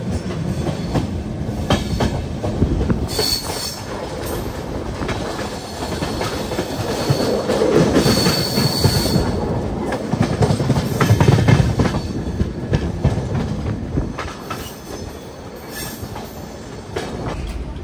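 Humsafar Express passenger coach rolling out of a station, wheels clattering over rail joints. High wheel squeals come in twice, about three seconds in and again near eight seconds.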